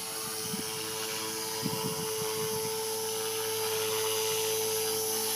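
Align T-Rex 450 Pro electric RC helicopter hovering, its 450MX brushless motor and rotor making a steady whine held at constant headspeed by the governor. There is a brief low flutter about two seconds in.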